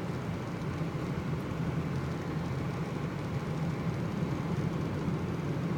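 Steady engine and road noise heard inside the cabin of a moving car, a low even rumble with no changes.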